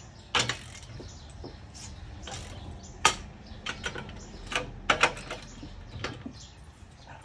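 Irregular metallic clicks and knocks of a half-inch ratchet and 21 mm socket working on a car's wheel lug nuts as they are cracked loose.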